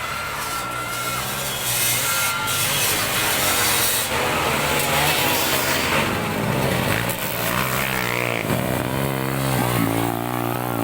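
Motocross dirt bike engines buzzing and revving, their pitch rising and falling repeatedly in the second half.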